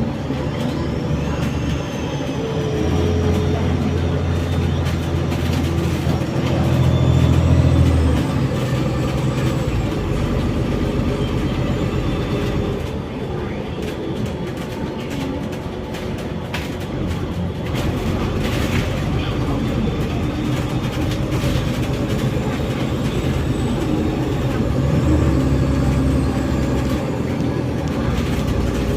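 City bus heard from inside the cabin while moving: the engine runs and its pitch changes as the bus speeds up and slows, with a faint whine rising and falling above it, plus road noise and rattles.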